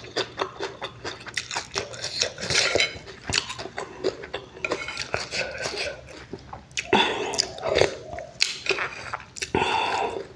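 A person eating fish roe close to the microphone: wet chewing, smacking and clicking mouth sounds, with short muffled vocal sounds about seven seconds in and near the end.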